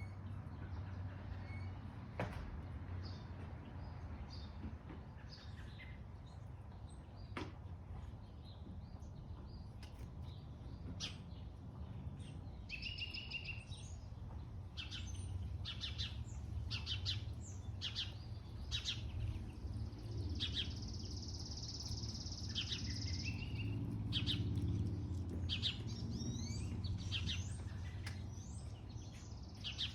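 Wild birds singing outdoors: scattered short, high chirps that grow busier about a third of the way in, with a long high trill about two-thirds through. A steady low hum runs underneath.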